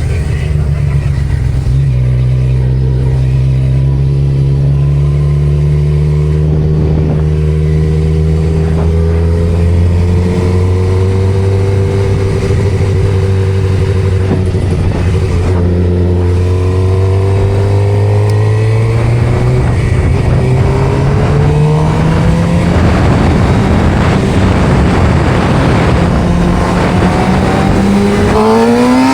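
Vehicle engine running at a steady cruise, its pitch creeping slowly upward, then rising quickly near the end as it accelerates.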